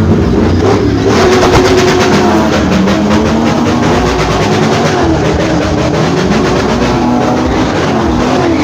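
Drift car engine revving up and down, its pitch rising and falling repeatedly, with a fast pulsing from about a second in.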